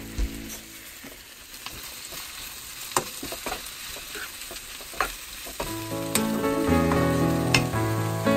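Sliced fish cake, onion and carrot sizzling as they are stir-fried in a nonstick wok, with the spoon scraping and knocking against the pan a few times. Background music comes in about two-thirds of the way through.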